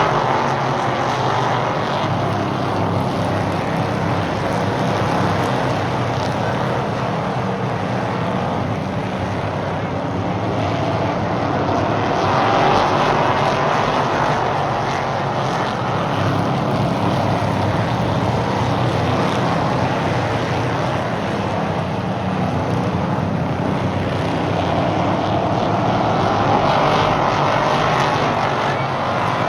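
Stock cars racing around a short oval, their engines a continuous drone that swells each time the pack comes past, about every 13 to 14 seconds.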